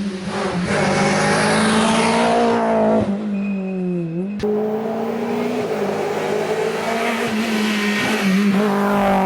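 Rally car's engine running hard at high revs as the car drives through the stage. The pitch dips briefly about four seconds in, then holds steady again.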